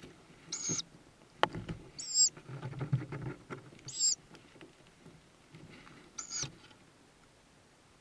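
Tawny owl nestlings giving four short, high squeaking peeps a second or two apart, with a sharp knock and a spell of scuffling rustle in the nest box between the first peeps.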